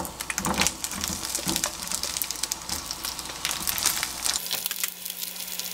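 Cut eggplant pieces dropped into oil in a hot frying pan, sizzling and crackling with small clicks as the pieces land.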